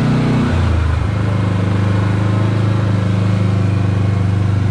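Kawasaki KRX 4 side-by-side's engine running under way; its note changes about a second in, then holds steady.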